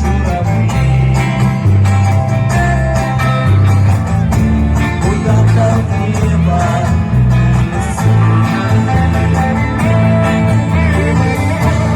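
Live band music with a steady beat: bass notes and guitar, played by a vocal-instrumental ensemble.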